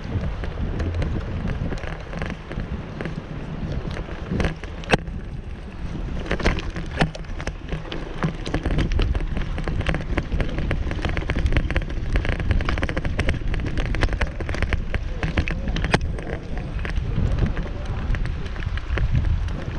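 Wind buffeting the microphone of a camera carried on a moving bicycle, a heavy low rumble, with frequent sharp clicks and knocks from the ride that come thicker after the first few seconds.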